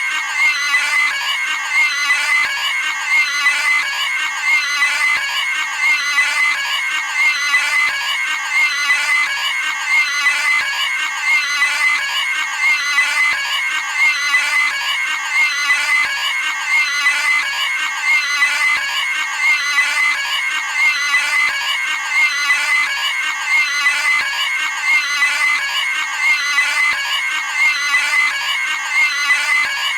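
A cartoon pig's high-pitched squealing scream, a sound effect looped over and over in quick, even repeats.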